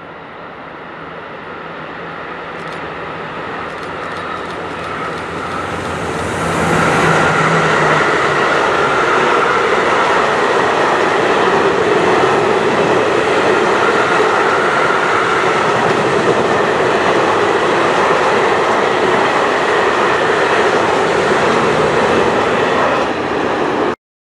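A train approaching and passing close by on a main line. The noise builds over about seven seconds, stays loud and steady with the wheels running on the rails, then cuts off suddenly near the end.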